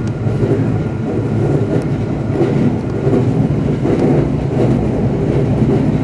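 Semboku Rapid Railway 7020 series electric train running along the track, heard from inside the train: a steady rumble of the wheels on the rails.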